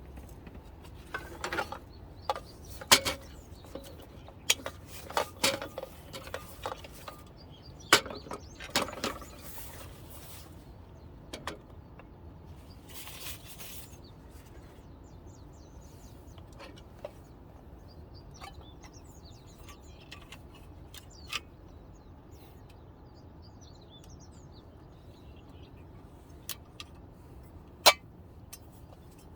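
Scattered sharp knocks and clacks, thickest in the first ten seconds, with a couple of single sharp clacks later on. Faint birds chirp in the quieter middle stretch.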